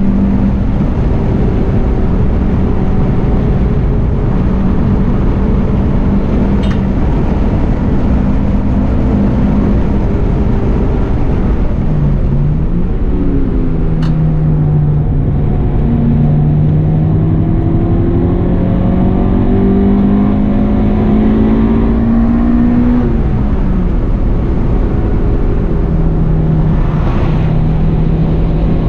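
Honda Integra Type R's four-cylinder VTEC engine heard from inside the cabin over heavy road and wind noise. About twelve seconds in the revs dip, then climb slowly for some ten seconds as the car accelerates, and fall again, settling to a steady note near the end.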